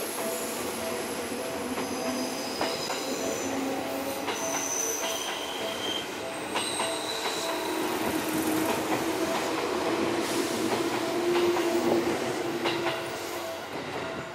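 Seibu 001 series Laview electric limited express departing, with wheel squeal in several high tones that come and go and scattered clicks over the rail joints. It grows a little louder for a few seconds past the middle.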